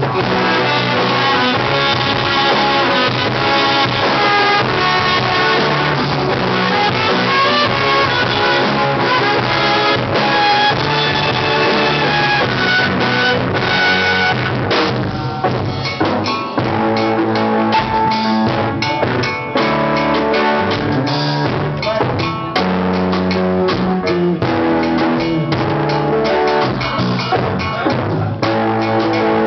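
Rock band playing an instrumental break: drum kit with a steady beat, electric guitar and bass, with no singing.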